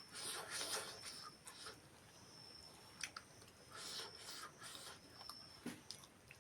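Close-miked chewing and mouth sounds of someone eating, in short irregular bursts with a few sharp clicks.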